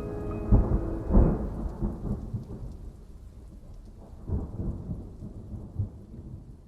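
Thunderstorm: rolling thunder rumbles over steady rain, loudest in the first couple of seconds and again about four seconds in, fading away toward the end. The last held notes of the music die out in the first second.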